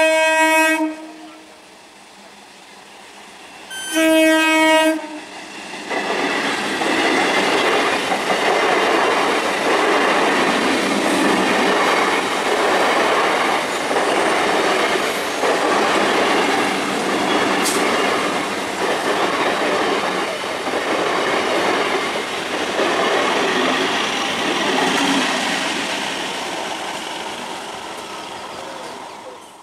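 Electric multiple-unit local train sounding its horn twice, short blasts about four seconds apart, then running past close by with rhythmic wheel clatter over the rail joints, which fades near the end.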